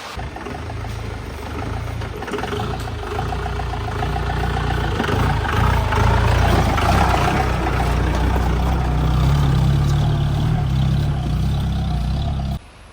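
Mahindra 4x4 jeep engine running with a deep, steady note that grows louder over the first half and holds, then cuts off suddenly near the end.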